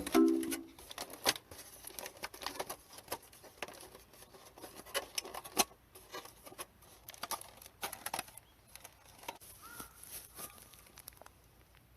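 Scattered small sharp clicks and crackles at a low level, irregularly spaced, as the last notes of music die away at the start.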